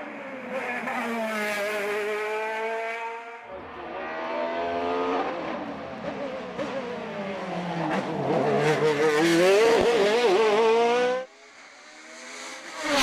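Racing car engine at high revs, its note rising and falling through gear changes, loudest shortly before it cuts off abruptly about eleven seconds in.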